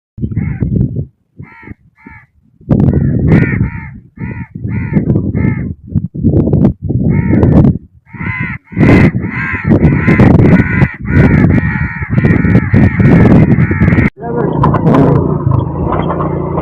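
Crows cawing loudly. There are short harsh caws one after another, sparse at first and then crowding into a dense overlapping clamour, which gives way about fourteen seconds in to a steady low rumble.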